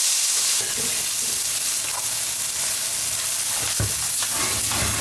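Kimchi sizzling in hot oil as it is stir-fried in a pan, a steady frying hiss, with a single knock about four seconds in.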